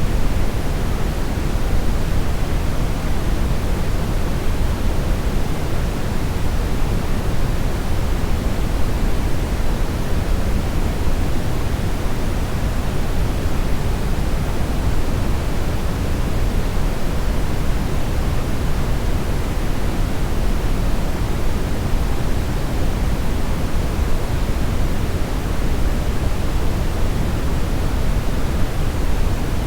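Steady synthetic brownish noise: a constant even hiss weighted toward the low end, with no changes or events.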